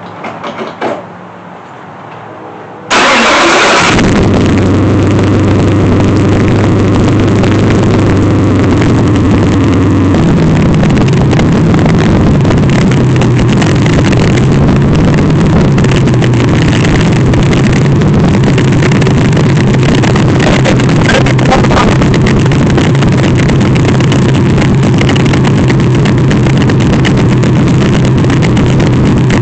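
Car engine cranking and catching about three seconds in, then running loudly and steadily, its note changing about ten seconds in as it settles.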